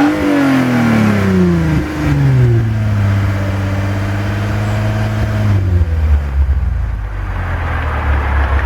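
Lexus IS250's 2.5-litre V6 through a TRD sports muffler, blipped once right at the start and then falling back to idle over about two and a half seconds. It idles steadily, with the idle dropping a little lower and rougher about five and a half seconds in.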